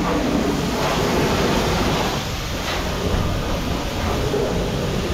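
Pressure washer spraying water, a steady rushing hiss with a machine hum underneath.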